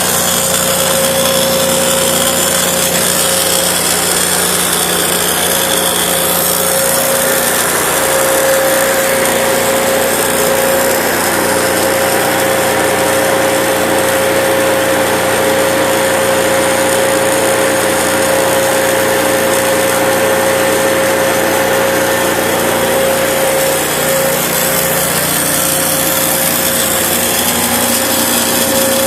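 Portable line boring machine running steadily, its drive turning the boring bar as it cuts metal in the bore, with a constant whine over the cutting noise.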